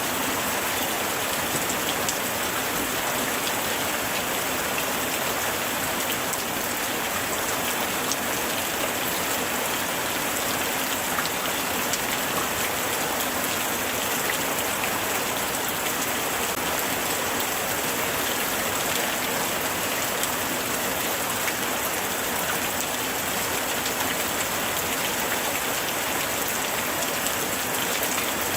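Steady light rain falling, a dense even hiss with many small drop ticks on surfaces.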